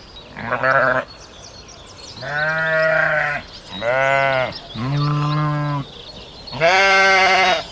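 Sheep bleating: five drawn-out bleats, one after another, with short gaps between them.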